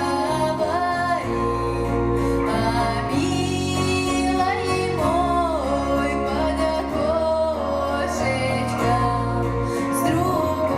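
A female voice sings a slow Russian song with a wavering vibrato, over held instrumental accompaniment with a steady bass.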